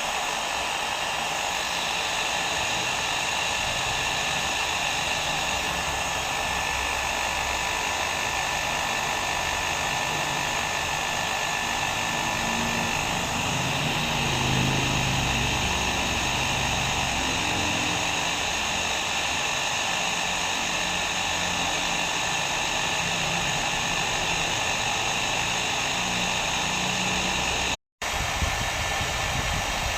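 Hair dryer running steadily: an even blowing hiss with a faint motor whine. It cuts out for an instant about 28 seconds in, then carries on.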